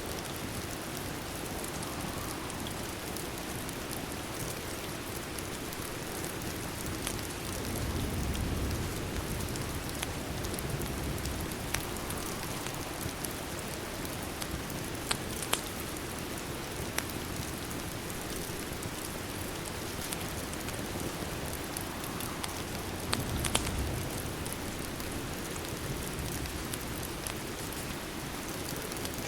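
Steady rain falling on a window, with occasional sharp crackles from a fireplace fire. A low rumble swells up twice.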